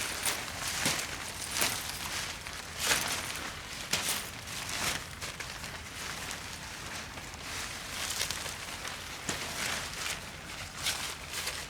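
Irregular rustling and light knocks, about one a second, from someone moving about and handling gear while setting up camp, over a steady outdoor hiss.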